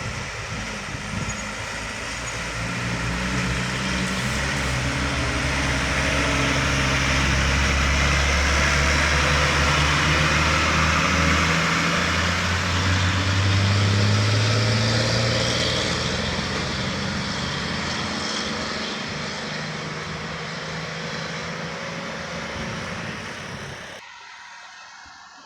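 Heavy diesel vehicle passing close by: a loud engine drone that builds, peaks with a step up in pitch about halfway, then fades away.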